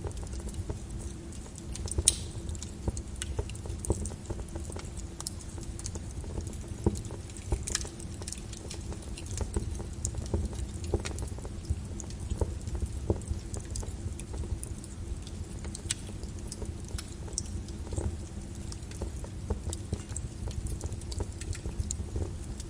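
Lava flow crackling: irregular sharp clicks and snaps over a steady low rumble.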